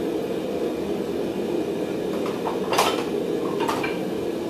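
A forge running with a steady low roar, while metal tools clank twice near the end, about a second apart, as the workshop is tidied up.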